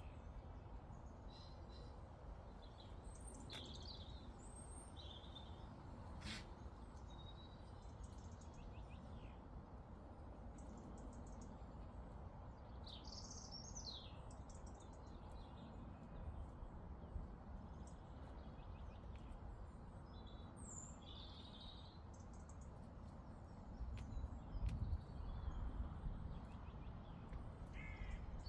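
Scattered birdsong, short chirps and trills from several birds, over a steady low rumble of breeze in open country. The low rumble grows louder and gustier near the end.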